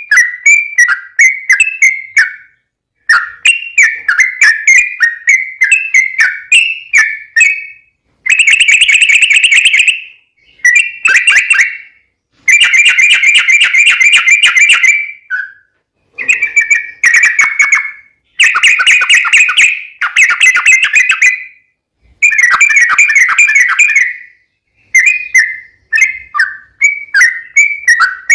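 Yellow-vented bulbul (trucukan) singing: bubbling, chirpy phrases around a middle-high pitch. These alternate with long, fast rolling trills (the 'ropel') lasting two to three seconds each, separated by short pauses.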